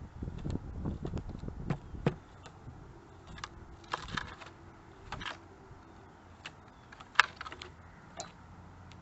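Pileated woodpecker pecking at wood: single sharp knocks at irregular gaps, with a brief quick cluster about four seconds in and the loudest strike about seven seconds in.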